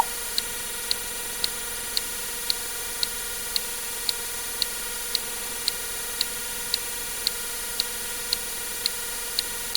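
Steady clock-like ticking, about two ticks a second, over a constant electronic hiss. Right at the start, a water-drip sound effect: one short drip that rises in pitch.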